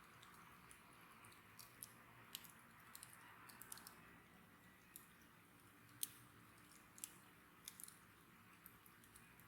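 Wood bonfire crackling: faint, irregular sharp pops and snaps over a soft hiss, the sharpest pop about six seconds in.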